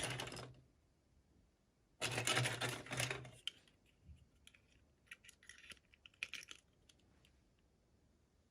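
Hands unpacking miniature toys: two loud bursts of crinkling and rustling at the start and around two to three seconds in, then scattered small plastic clicks and light rustles.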